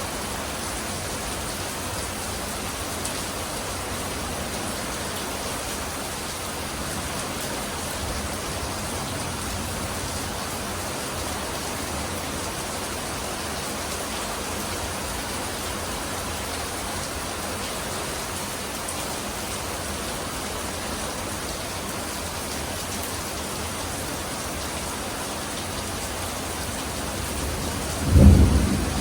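Steady rain falling, then a sudden loud clap of thunder with a low rumble near the end.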